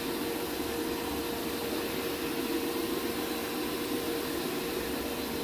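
Counter-rotating brush carpet machine running steadily, its motor humming over a constant brushing noise as it scrubs an encapsulating odour treatment into the carpet pile.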